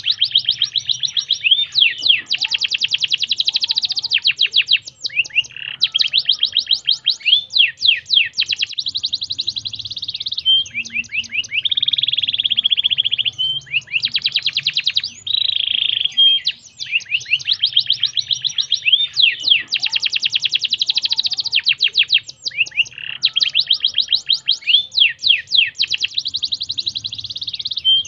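Domestic canary singing continuously: long phrases of rapid repeated notes, fast trills and steady whistled tones, changing every second or two.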